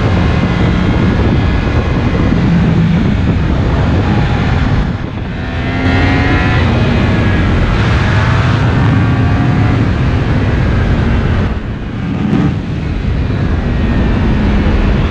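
Yamaha MT-10's crossplane inline-four engine with an Akrapovic slip-on exhaust, running hard under acceleration while riding, its revs climbing. There are two brief dips in level, about five and twelve seconds in.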